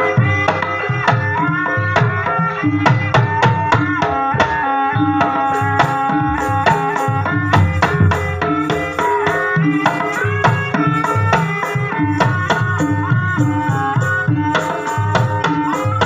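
Javanese gamelan music accompanying an ebeg horse dance: rapid hand-drum (kendang) strokes under a steady stream of pitched melodic notes.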